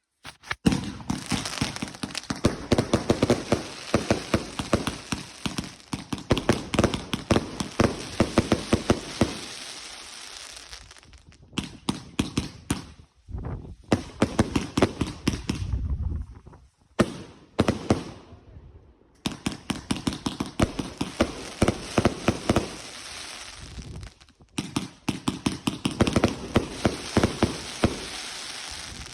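Fireworks going off in long volleys of rapid crackling bangs, several per second. The volleys break off around the middle, with scattered bursts, a deeper boom and short gaps, then pick up again and stop near the end.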